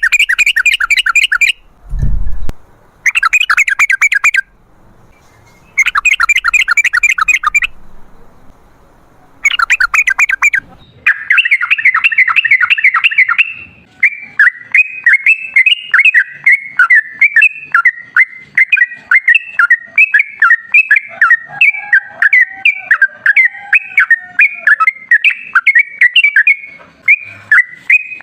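Yellow-vented bulbul (trucukan) singing its rapid chattering 'ropel' song. The first part comes in short bursts with pauses between them; after about 11 s it runs on as a long unbroken string of quick, sharp notes. A brief low thump comes about 2 s in.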